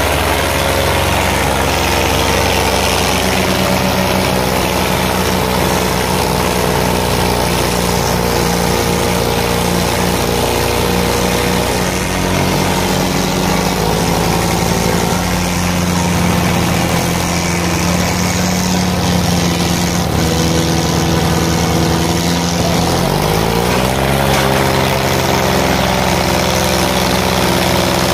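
Diesel tractor engines running steadily at speed. About two-thirds of the way through, one engine's pitch rises sharply as it revs up.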